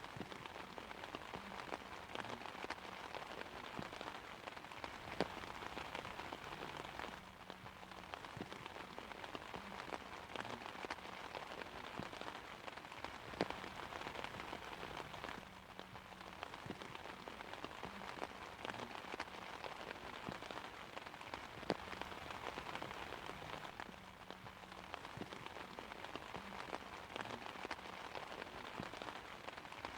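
Steady rain pattering on an umbrella: a dense hiss of drops with sharp individual ticks, and a few louder single drop hits, no thunder.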